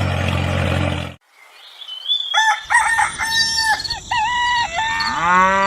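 A steady motor drone cuts off suddenly about a second in. After a short silence, chickens give a string of short calls, and a rooster crows near the end.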